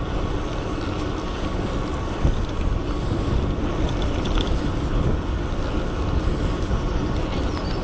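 Steady wind rushing over the microphone and road noise from a moving electric bike.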